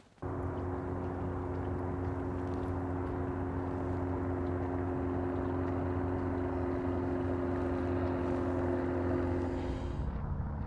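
A vehicle running steadily: a constant low hum and two steady engine tones over an even rushing noise. It starts abruptly, and the tones drop out near the end.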